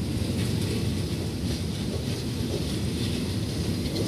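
Passenger coaches of a departing train rolling past close by: a steady low rumble of wheels on rail, with a few faint clicks.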